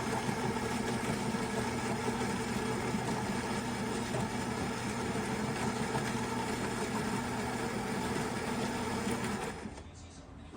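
Philips fully automatic espresso machine running with a steady mechanical hum, which cuts off about nine and a half seconds in.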